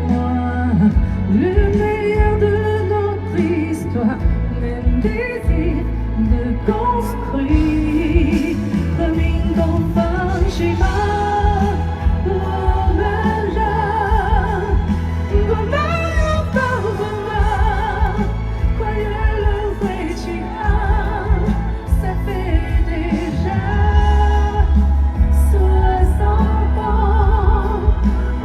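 Live pop ballad: a woman singing with vibrato over a band with a strong steady bass.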